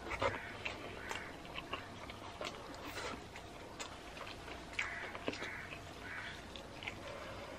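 Close mouth sounds of a person chewing a handful of rice with pork and greens: irregular short clicks and smacks.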